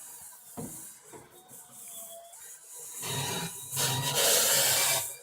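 Electric drill spinning a scrub brush against the inside wall of a microwave oven. About three seconds in, a steady motor hum starts under a loud scrubbing noise.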